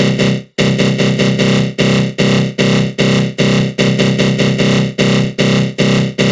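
Synthesized attack growl sound effect: a loud, dense synth tone from the GMS synth treated with a flanger, pulsing in short repeated swells about two to three times a second, with a brief break about half a second in.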